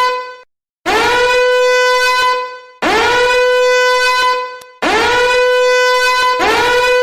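Repeated horn blasts: a brassy tone that swoops up into one steady note, each blast about two seconds long and at the same pitch, four times, the last starting just before the one before it ends.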